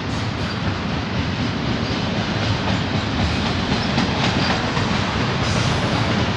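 Double-stack intermodal well cars of a freight train rolling past, a steady noise of steel wheels running on the rails.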